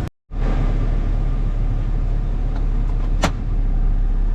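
An old pickup truck running, heard from inside the cab as a steady low rumble, with one brief sharp click about three seconds in.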